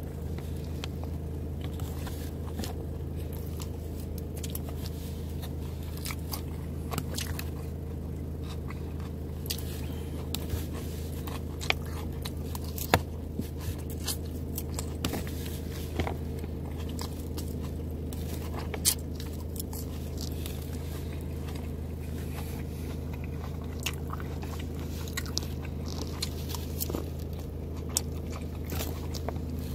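Close-up chewing and crunching of lettuce salad, with irregular crisp clicks and the occasional scrape of a plastic fork against a plastic container, over a steady low hum.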